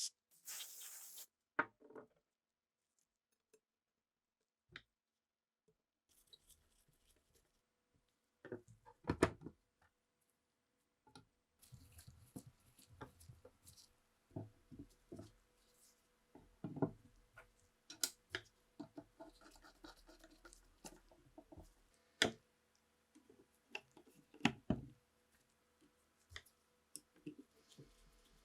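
Hand-work noises of a rifle restoration: irregular light clicks, taps and scraping of parts being handled, with a few sharper knocks. A short hiss right at the start and an almost silent stretch of a few seconds before the handling picks up.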